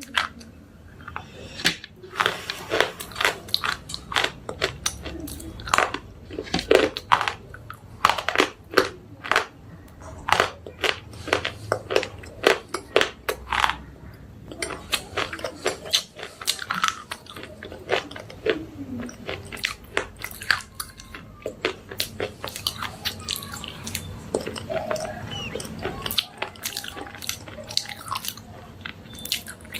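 A person biting and chewing slate pencils close up, a string of sharp, dry crunches that come thick and fast at first and thin out to slower chewing in the second half.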